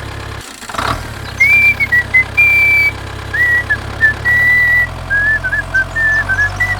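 A whistled tune: a single clear tone in short held notes that step and glide in pitch, starting about a second and a half in. Under it runs a steady low engine-like hum.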